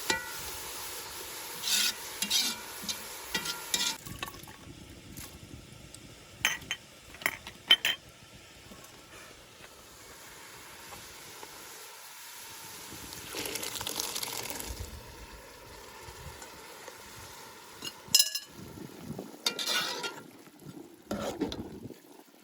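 Cooking sounds: a utensil stirring and scraping in a pot or pan with sharp clinks of metal, and a steady sizzle of frying during the first few seconds.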